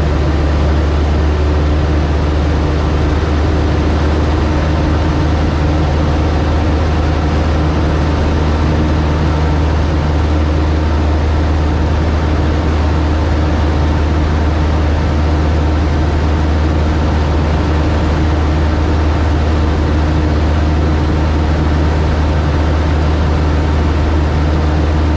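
Cub light aircraft's piston engine and propeller running steadily in flight: a constant low hum with a steady noise over it.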